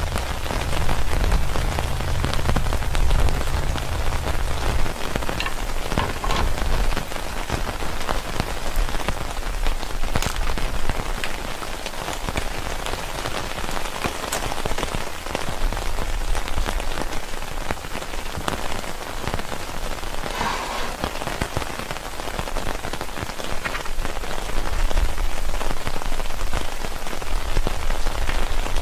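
Heavy rain falling steadily, a dense hiss with scattered sharper drips. A low rumble sits under it for the first few seconds and comes back near the end.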